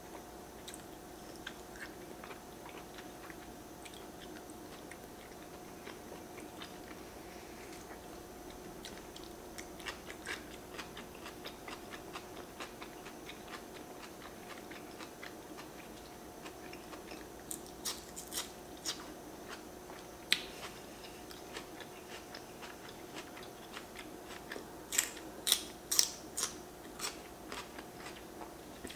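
Close-miked eating: quiet chewing and wet mouth sounds with sharp crunches, several in two clusters in the second half, over a steady low hum.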